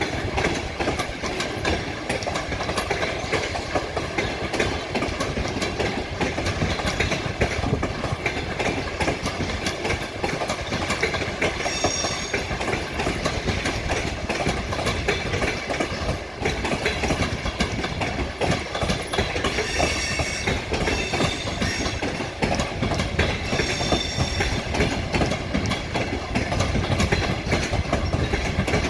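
A departing passenger train rolling past at low speed, its coach wheels clacking and rumbling over the rail joints. Short high squeals come from the wheels about three times.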